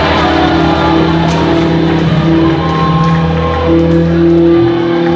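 Live rock band playing loudly, with distorted electric guitar and bass holding sustained chords over a steady drum beat.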